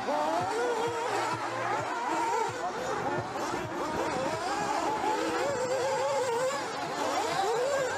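Several nitro-powered RC buggies' small two-stroke glow engines revving together as they race, many high buzzing pitches rising and falling over one another as the cars speed up and brake around the track.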